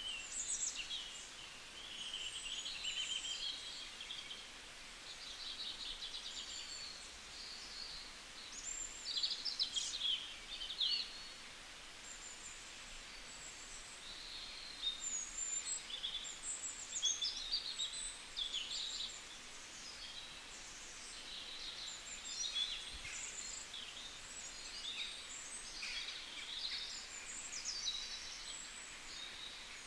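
Small birds chirping, many short high calls overlapping over a faint steady background hiss.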